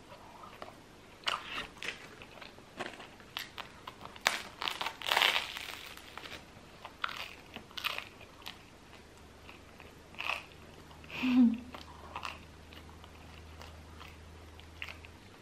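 Close-up eating sounds: bites and crisp crunches of crusty baguette with chewing of cheese, loudest about four to five seconds in, and a brief closed-mouth hum near eleven seconds in.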